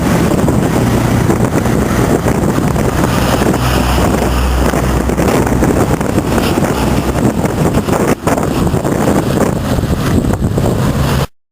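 A heavy vehicle engine running with a steady low hum, under heavy wind noise on the microphone. The sound cuts out abruptly near the end.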